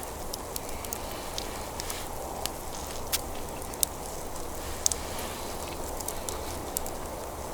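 Wood campfire burning, crackling with sharp irregular pops over a steady rushing noise.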